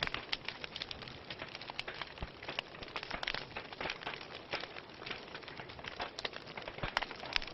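Wood fire burning in a fireplace, crackling and popping irregularly over a steady hiss of flames.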